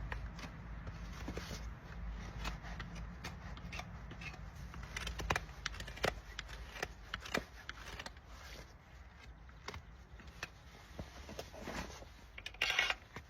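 A horse's hoof being trimmed: a run of irregular sharp clicks and short scrapes from the tools on the hoof, with a longer scrape near the end.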